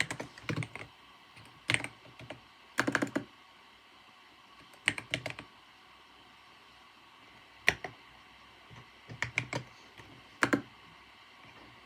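Typing on a computer keyboard in short, irregular bursts of a few keystrokes with pauses between them, over a faint steady background hum.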